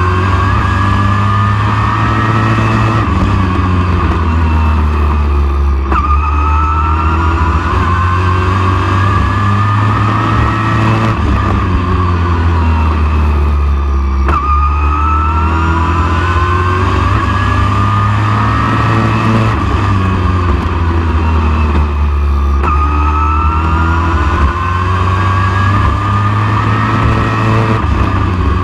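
Super truck race engine running hard at lap speed, its pitch climbing for several seconds and then dropping sharply about every eight seconds as it backs off for each turn and pulls down the next straight.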